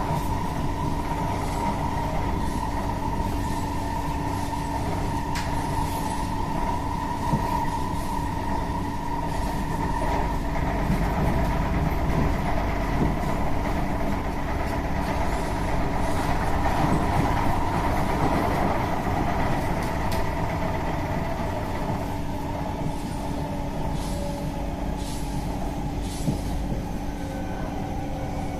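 Interior of a C151A metro train running between stations: a steady rumble of wheels on rail with a constant motor whine, and a few faint clicks.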